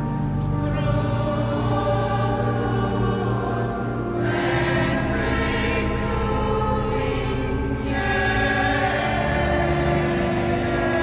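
A choir singing a sacred piece, the voices rising and swelling, over steady held low notes.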